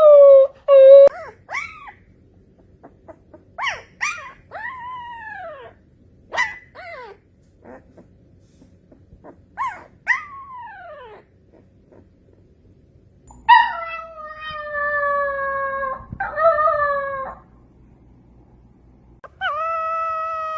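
Puppies howling: a string of short, high awoos that rise and fall, then from about two thirds of the way through longer, nearly level howls held for a second or two each.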